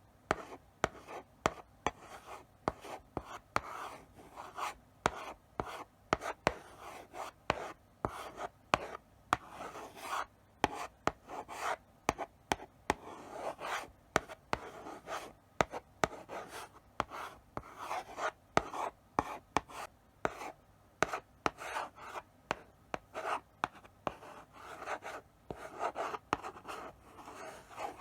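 Chalk writing slowly on a blackboard: short scratchy strokes broken by sharp taps as the chalk meets the board, in an uneven rhythm.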